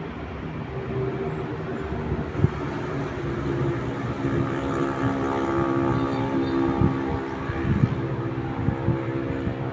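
Urban traffic with a motor vehicle's engine running close by, its hum growing louder over the first few seconds and holding, over a steady background of city noise with a few short knocks.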